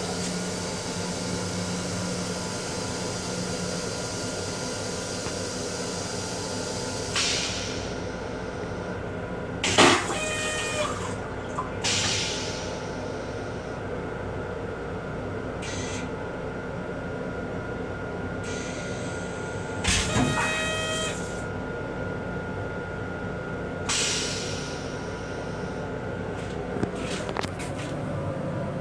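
Steady running hum and rumble of an M7 electric railcar heard from inside its small restroom, broken by several short clunks and knocks, two of them with a brief metallic ringing.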